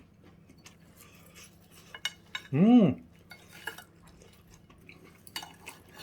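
Knife and fork clicking and scraping on a plate during a meal, with a loud hummed "mmm" of enjoyment about halfway through.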